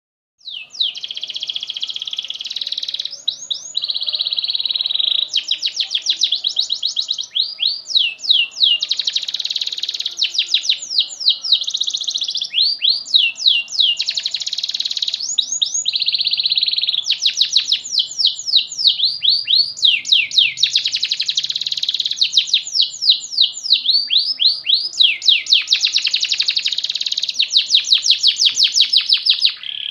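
Domestic canary singing a long continuous song: fast trills, runs of quick downward-sweeping notes and buzzy rolls, one phrase straight after another with hardly a break.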